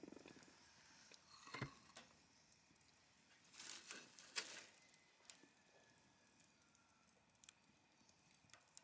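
Wood fire burning in a folding fire pit, crackling quietly with scattered sharp pops. The loudest come in a cluster around four seconds in.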